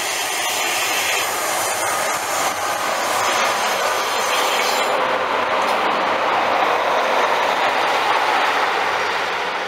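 A diesel multiple unit passes close by: a Class 143 Pacer leading a Class 153 railcar. The underfloor diesel engines run and the wheels roll on the rails, louder as the coaches go by and easing off near the end.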